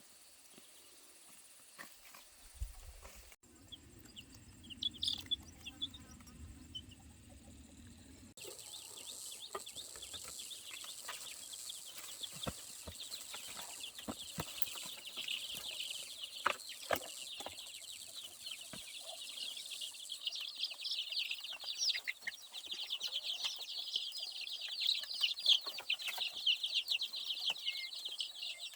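A crowd of baby chicks peeping: many rapid, high chirps overlapping, getting louder after about twenty seconds. A few scattered peeps and a low rumble come first.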